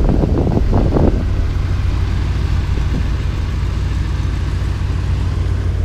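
Chrysler police car's engine idling with a steady low rumble.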